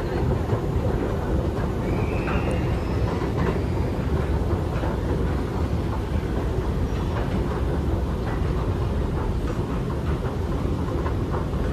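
Singapore MRT train running, heard from inside the carriage: a steady rumble of wheels on the track, with a brief high squeal about two seconds in.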